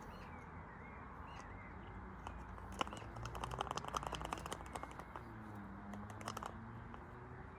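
Pinnacle washing machine running with a low hum, and a quick run of light rattling clicks from about three to five seconds in, with a few more near the end.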